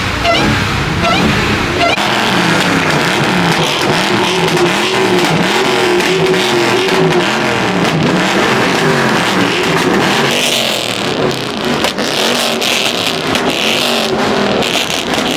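A car engine being revved over and over, its pitch rising and falling about once a second. A louder hiss joins in about ten seconds in.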